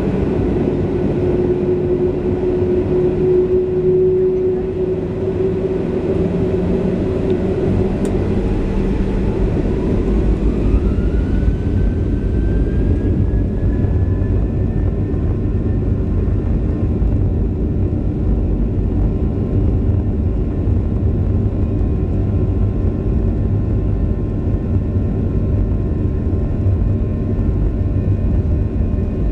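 Boeing 737-700 cabin noise from its CFM56-7B engines: a steady engine drone, then an engine whine rising in pitch about ten seconds in as the engines spool up, with a heavier rumble underneath from then on.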